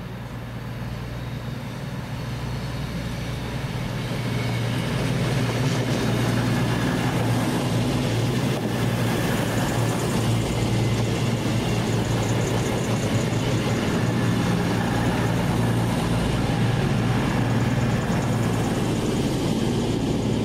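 A train running through the station at close range, with a steady low engine drone under a rushing noise. The sound swells over the first few seconds, then holds steady.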